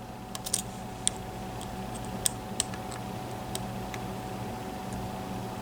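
Small sharp metallic clicks and ticks at irregular intervals: a custom slider pick working the sliders of a Mul-T-Lock MT5+ lock held under tension. There are three quick clicks about half a second in, then single ticks every half second to a second.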